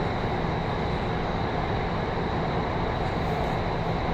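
Metro train running at steady speed, heard from inside the carriage: an even rumble and rush of wheels and motors with a thin, steady high-pitched whine.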